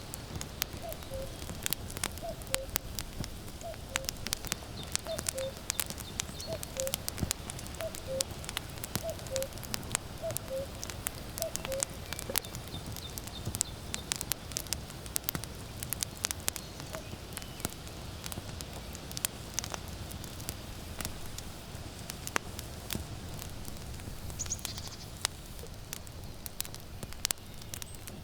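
Wood fire crackling and popping throughout. Over it a common cuckoo calls its falling two-note "cuck-oo" about ten times, roughly once a second, through the first half.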